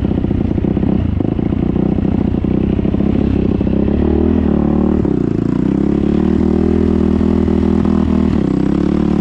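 Motorcycle engine running steadily, its pitch sagging and rising a little about halfway through and again near the end.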